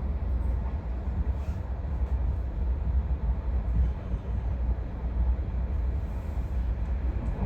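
Passenger train running along the track: a steady low rumble with a haze of running noise above it.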